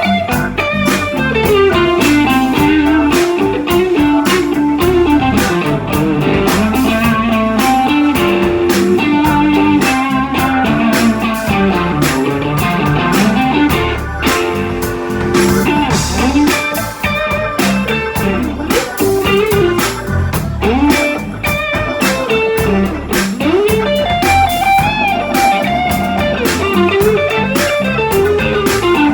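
Blues-rock band playing live in an instrumental break: a lead electric guitar line with bending notes over bass and drums.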